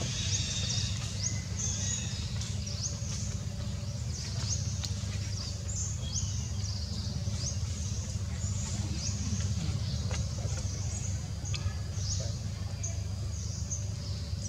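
Small birds chirping: many short, high chirps that drop in pitch, repeating irregularly over a steady low hum.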